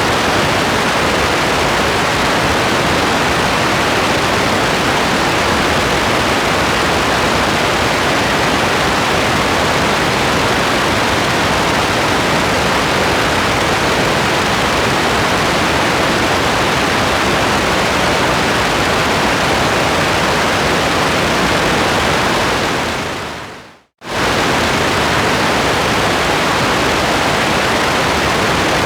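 Steady, dense rain hiss with no separate drops or thunder. It fades away over about a second near the end, goes silent for a moment, and cuts straight back in at full level.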